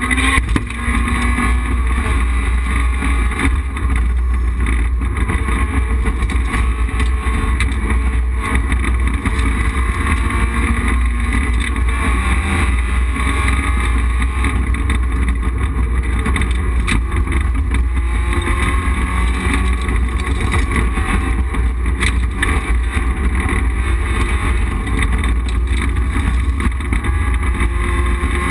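Rally car's engine running hard at stage pace, heard from inside the stripped, roll-caged cockpit, with tyre and road noise.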